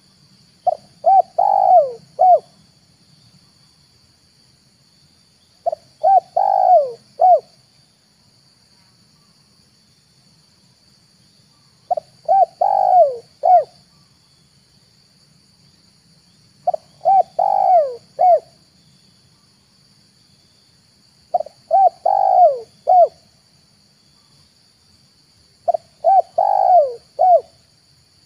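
Spotted dove cooing: six short phrases of four or five coos each, repeated every four to six seconds.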